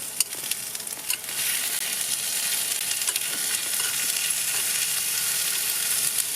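Food sizzling and frying in a hot pan, with a few small clicks; the sizzle grows louder about a second in and then holds steady.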